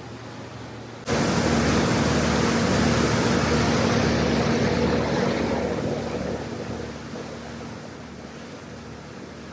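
Loud rushing of wind and water on a boat underway, with a steady engine hum under it. It starts abruptly about a second in and dies away over the following seconds.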